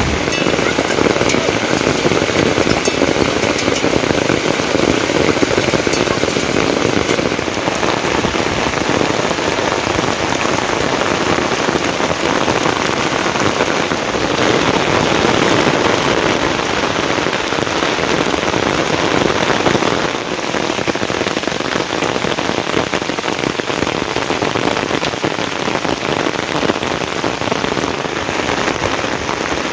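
Rain falling steadily and loudly, a dense patter of drops on a surface, its tone shifting slightly a few times.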